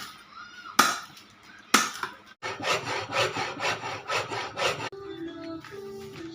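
Wood being worked with hand tools: two sharp chopping strokes about a second apart, then sawing at about three strokes a second. From about 5 s a simple melody of held notes takes over.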